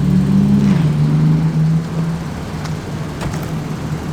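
Car engine running, its pitch climbing slightly in a light rev and dropping back under a second in, then running more quietly.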